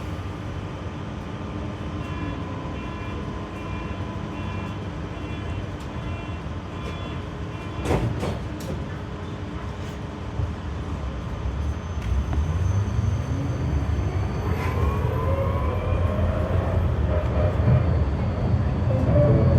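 Electric low-floor tram (GTZO type) heard from on board: a steady electric hum with one sharp knock about 8 s in. From about 12 s the traction drive's whine rises in pitch and the low rumble grows louder as the tram gathers speed.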